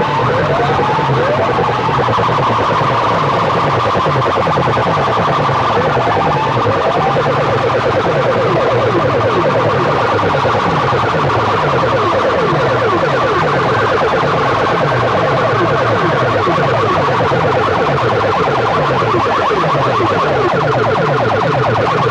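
Competition sound-system speakers blasting an alarm-like electronic siren effect, with quick upward pitch sweeps near the start and again about six seconds in, over a fast repeating bass pattern.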